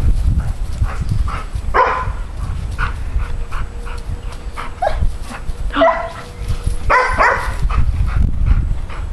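Doodle dogs giving a few short pitched yips and whines, about two, six and seven seconds in, over a steady low rumble.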